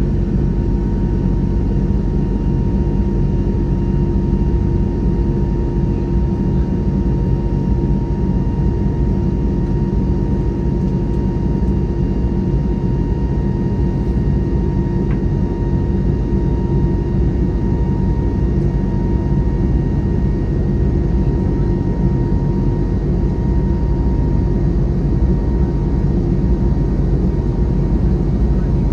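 Steady jet airliner cabin noise inside an Airbus A321neo: a low rumble from its Pratt & Whitney PW1100G geared turbofan engines and the airflow, with faint steady engine tones over it and no change in level.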